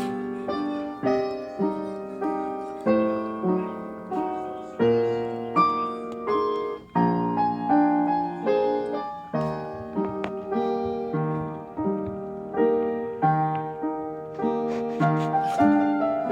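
Background piano music: gentle chords struck about twice a second, each note ringing and fading.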